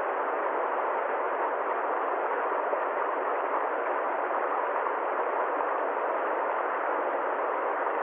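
Steady, even rushing noise that holds unchanged throughout, with no tone, rhythm or separate events in it.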